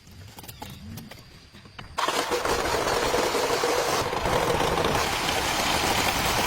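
Old mini excavator's engine running steadily, coming in abruptly about two seconds in after a few faint clicks.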